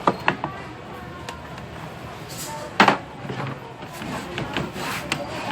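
Scattered clicks and knocks of objects being handled, with one sharp knock about three seconds in, over background voices.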